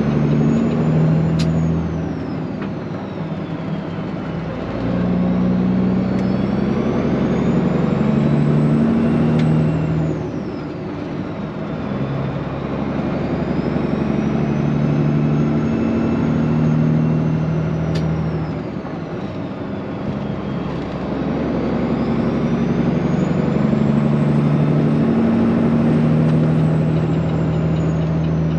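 Straight-piped Peterbilt 389 semi truck's diesel engine pulling hard under load and working up through the gears. The engine pitch climbs and drops back at each shift, with a faint high whistle rising and falling along with it.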